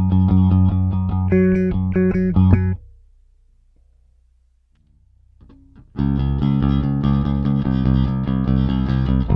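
Five-string StingRay-style bass with two humbuckers, played with a pick and recorded direct: a run of sharply attacked picked notes that stops a little under three seconds in. A faint low hum fills a gap of about three seconds, then the picked playing starts again.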